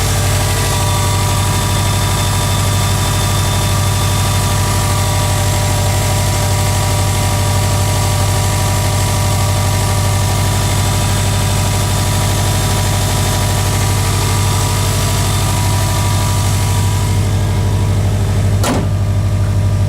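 2008 Subaru WRX's turbocharged 2.5-litre flat-four idling steadily through a muffler-deleted exhaust, with a single sharp click near the end.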